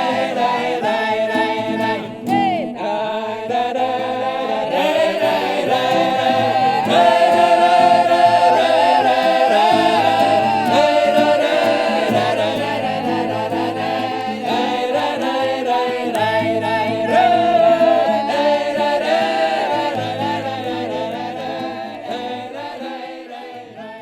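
Mixed ensemble of men's and women's voices singing a Russian folk song a cappella in several parts, in the village style of Podserednee, Belgorod region. The singing dies away over the last few seconds as the song ends.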